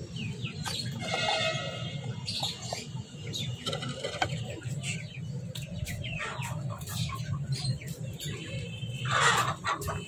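Pet birds chirping and calling in short, repeated notes, with light rustling and a louder rustle near the end.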